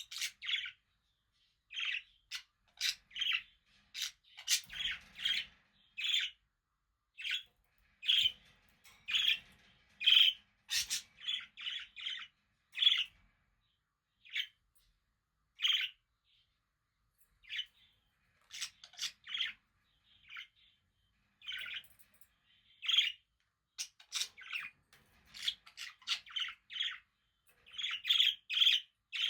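Budgerigars (budgies) chirping in short, separate calls that come in quick runs, with pauses of a second or two between runs.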